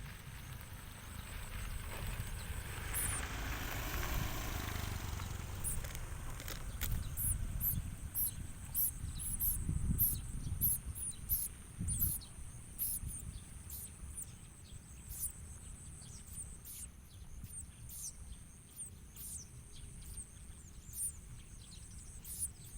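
A small bird giving short, high, thin chirps, roughly one or two a second, over a steady high insect whine. A rushing swell of noise comes a few seconds in.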